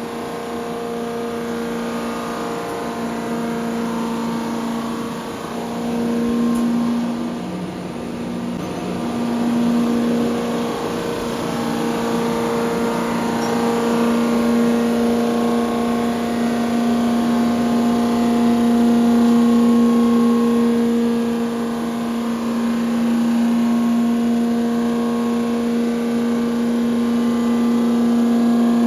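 Engine-machining equipment running steadily while working on a Ford tractor engine block, with a steady hum and higher overtones that fade in and out.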